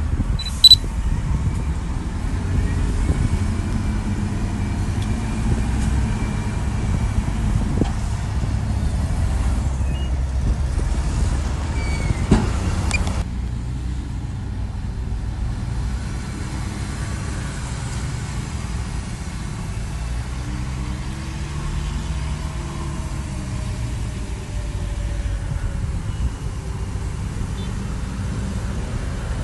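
Heavy earthmoving machinery running, with a steady low diesel engine rumble. A single sharp loud click comes near the start, and a metallic knock about twelve seconds in.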